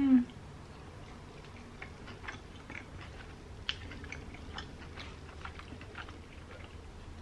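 A person chewing a bite of pizza close to the microphone: scattered small wet clicks and soft crunches of the mouth. It opens with a short hum of the voice, falling in pitch.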